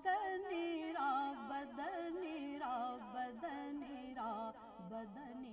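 A solo voice singing a devotional naat in a slow, ornamented melody with sliding notes, settling onto a long held note near the end.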